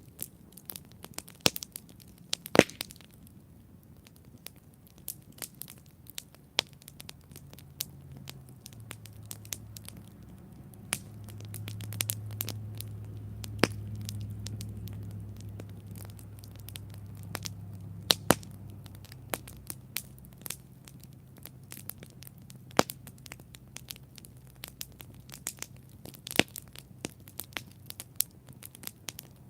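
Wood campfire crackling, with irregular sharp pops throughout, a few of them loud. A low rumble builds about seven seconds in, is strongest around the middle and fades out by about twenty seconds.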